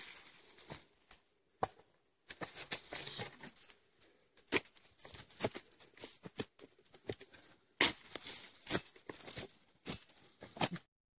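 Shovel digging into soil and undergrowth around a kudzu root: irregular scrapes, crunches and sharp knocks with rustling in between, stopping abruptly near the end.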